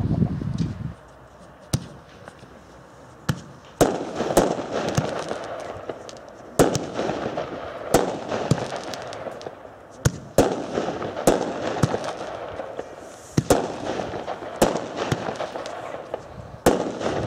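Fireworks display: a ground fountain's low rushing dies away about a second in, then aerial shells burst one after another with sharp bangs, roughly one a second, with crackling after each burst.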